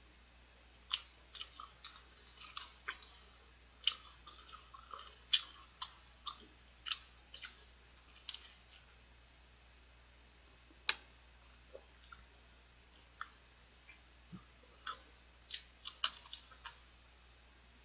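Close-miked eating sounds of a person biting and chewing a piece of fried chicken held in his hands: irregular wet clicks and smacks of the mouth. They come thick for the first several seconds, pause for about a second and a half, then go on more sparsely.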